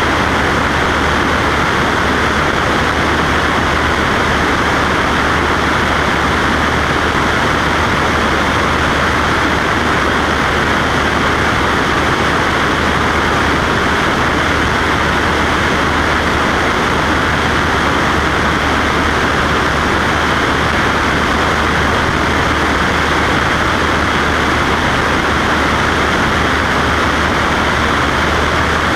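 Cessna Skywagon's piston engine and propeller, a loud, steady drone with a low hum underneath, unchanging throughout.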